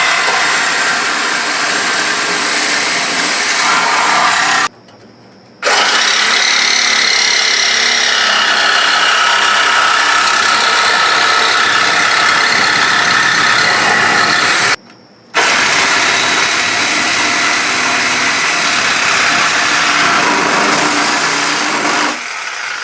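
Power cutting tool cutting through steel in three long runs. It stops for about a second twice, around five seconds in and again around fifteen seconds, each time starting back up abruptly.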